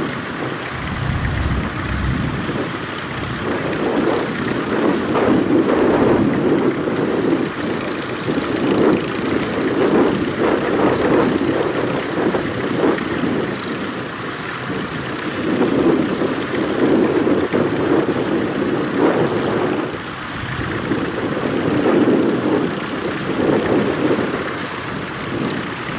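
Tractor engine running steadily, its drone swelling and easing every few seconds.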